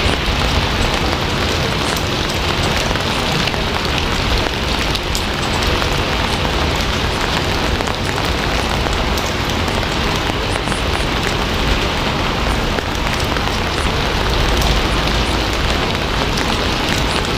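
Steady, heavy rain falling on a surface, a dense continuous patter with scattered individual drop ticks.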